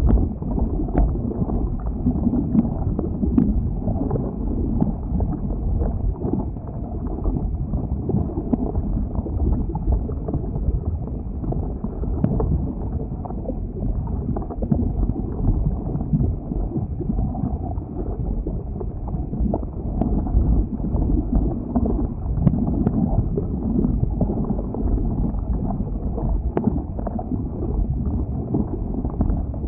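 Flowing lava giving a continuous low, noisy rush with a few faint, scattered crackles, mixed with wind buffeting the microphone.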